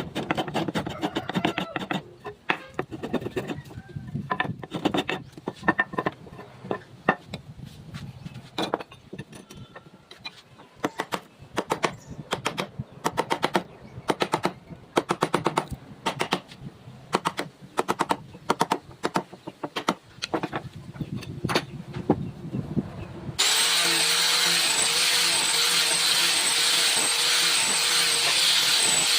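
Wood being worked with tools: a long run of sharp, irregular knocks and taps, a few a second and sometimes in quick runs. About three quarters of the way through they stop abruptly and a woodworking power tool takes over, running steadily with a constant whine.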